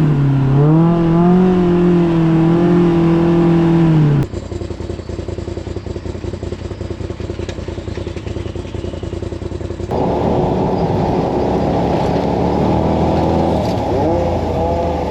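Side-by-side UTV engine revving, its pitch dipping and then climbing. About four seconds in, a cut changes it to a lower, rougher engine rumble. From about ten seconds in comes a muffled engine note that rises and falls a little.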